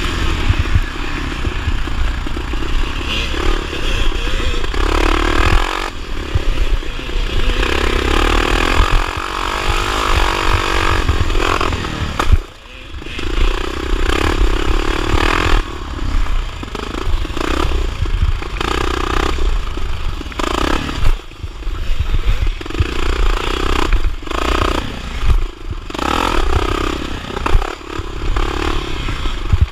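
1979 Honda XR500 single-cylinder four-stroke engine under race load, revving up and easing off again and again as the throttle opens and closes, with a brief sharp drop about twelve seconds in.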